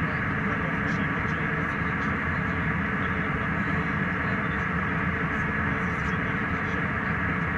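Steady cabin noise of a jet airliner in flight: an even rushing hum with a faint steady whine over it.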